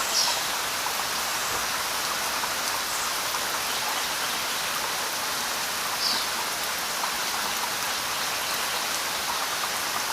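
Damodar River water rushing and splashing in a steady, even hiss. Two brief, louder high-pitched sounds stand out, near the start and about six seconds in.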